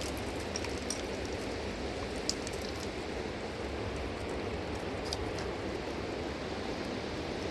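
Fast-flowing mountain river rushing steadily, with a few faint ticks over it.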